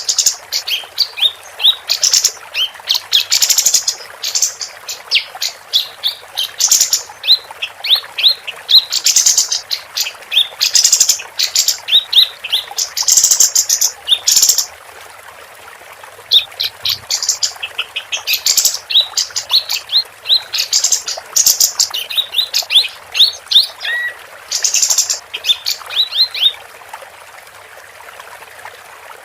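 Female kapas tembak singing in rapid chattering phrases: quick runs of short falling notes mixed with bright buzzy bursts. It pauses briefly about halfway and falls silent near the end, leaving a faint steady hiss.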